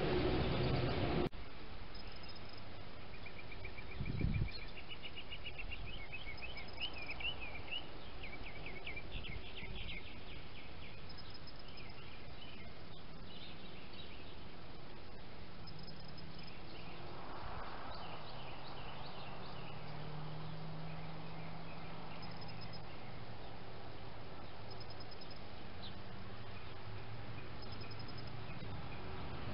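Outdoor ambience with a steady hiss and birds singing: a run of chirps and trills in the first ten seconds, fainter calls later. A single low thump comes about four seconds in.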